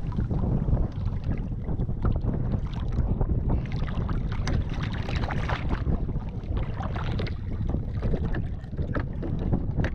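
Wind buffeting the microphone in a steady low rumble, with water lapping and slapping against the hull of a small Gheenoe skiff in many short sharp splashes and knocks.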